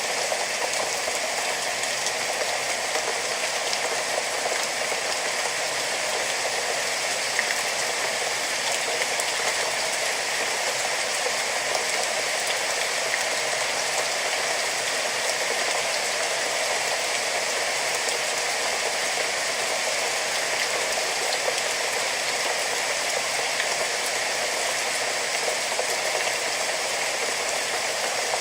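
Steady rain falling, an even hiss of many drops with no change and no distinct single hits.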